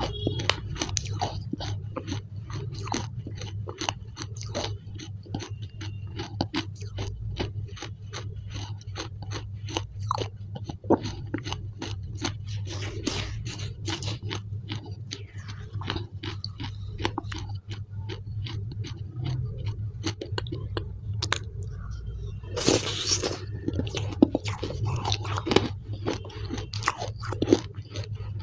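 Close-miked chewing of blue clay paste: a dense run of crunches and wet mouth clicks, with a metal spoon scraping in the plastic tub and a short, louder noisy patch near the end.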